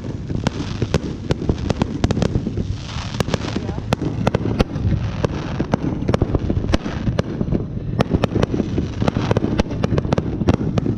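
Fireworks and firecrackers going off in a dense, overlapping barrage: many sharp bangs and pops, several a second, over a continuous rumble of more distant explosions.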